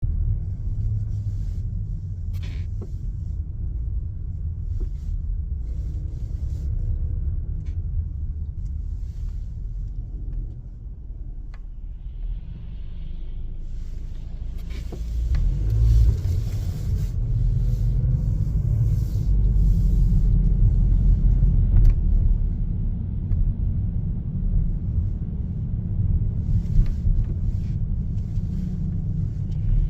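Car driving: a steady low rumble of engine and tyres on the road, with scattered light knocks, growing louder about halfway through.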